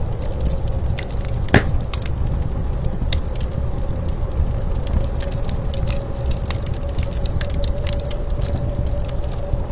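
Wood fire crackling with scattered sharp pops, one louder crack about a second and a half in, over a steady low rumble of blizzard wind with a faint steady whistle.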